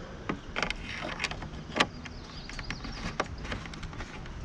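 Small irregular metallic clicks and taps of motorcycle windshield mounting bolts being fitted and started, not yet tightened down. One sharper click comes a little under two seconds in.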